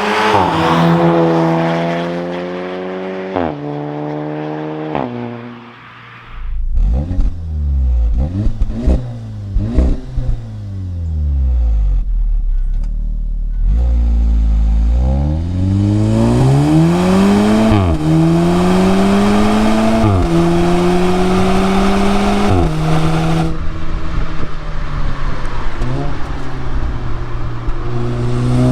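Audi S3's turbocharged four-cylinder engine and exhaust accelerating hard through the gears. The pitch climbs and drops back at each upshift, several times over. A stretch of uneven, deep rumble with knocks comes in between the pulls.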